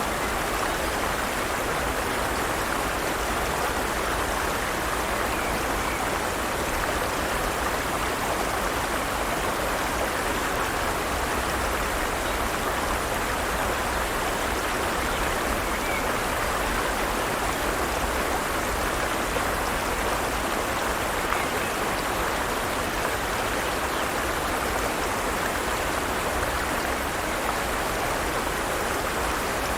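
Forest stream flowing steadily over rocks, an even rushing and babbling of water.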